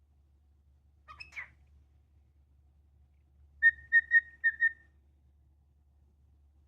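Cockatiel calling: a short scratchy chirp, then a quick run of five clear whistled notes on one pitch.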